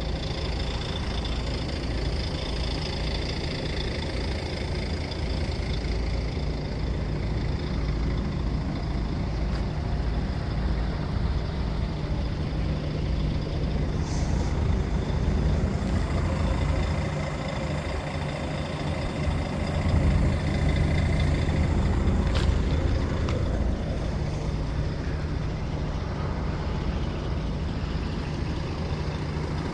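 Heavy diesel engine of a wood-chipper truck running steadily. Two short sharp sounds come through, about halfway and about three quarters of the way through.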